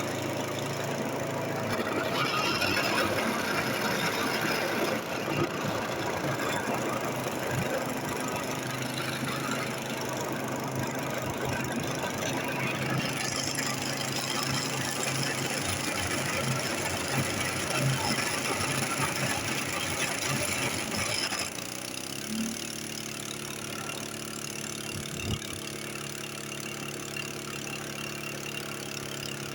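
An engine running rough and loud with a lot of noise, then changing abruptly about 21 seconds in to a quieter, steadier running.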